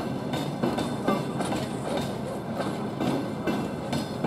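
A passing train's wheels clattering over rail joints: a steady run of knocks, one to two a second, over a low running hum.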